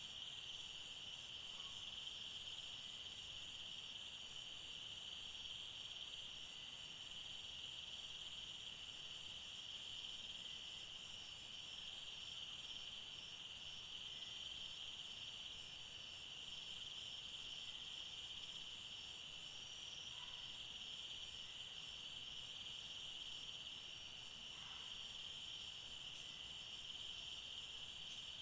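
Steady, faint chorus of insects trilling continuously in forest, with a couple of brief faint calls from something else near the end.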